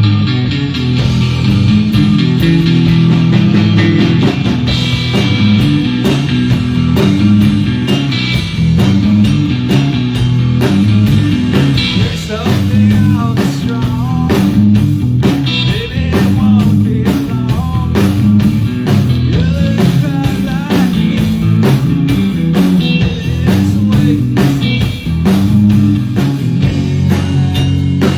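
Live band playing a rock song on electric guitar, bass and drum kit, with a steady beat throughout.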